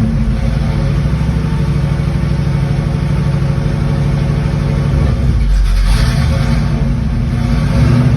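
Modified Pontiac 400 V8 of a 1967 Firebird running at idle, still warming up after a cold start. About five and a half seconds in, its note sags briefly, then picks back up.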